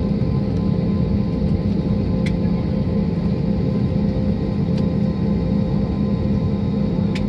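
Steady drone of a passenger jet heard from inside the cabin: a constant low rumble with a steady engine hum, and a few faint clicks.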